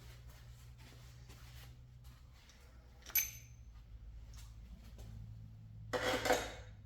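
Small metal engine parts being handled: scattered light clicks, one sharp ringing metal clink about three seconds in, and a louder rattling scrape near the end, over a steady low hum.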